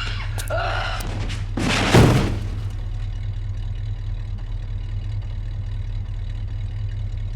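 Car engine idling with a steady low hum. About two seconds in, a loud rush of noise ends in a heavy thud.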